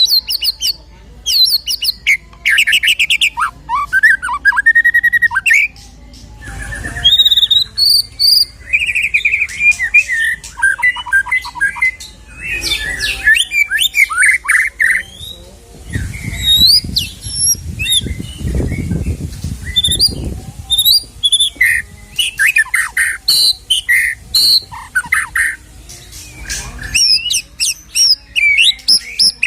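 White-rumped shama (murai batu) singing a long, varied song of whistles, rising and falling glides, fast trills and chattering notes, full of mimicked phrases. A low rumble sounds under the song for a few seconds in the middle.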